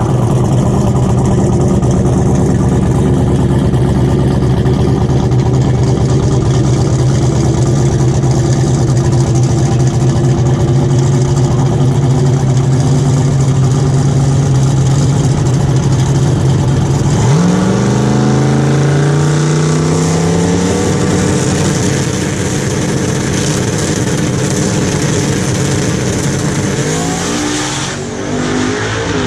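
A car engine running at a steady speed, then climbing in pitch as it speeds up about 17 seconds in, and running on less evenly after that, with a brief drop near the end.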